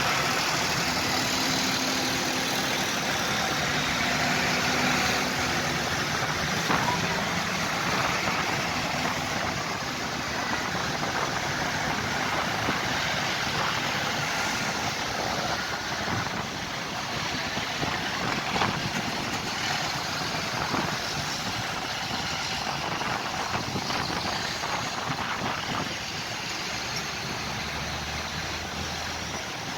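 Tractor engines running steadily, with a low engine hum that comes up near the end.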